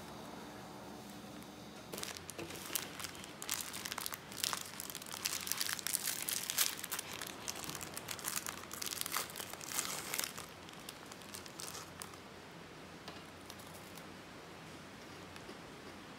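Crinkling and crackling of something being handled, in quick irregular bursts for about nine seconds, then dying away to a quiet hiss.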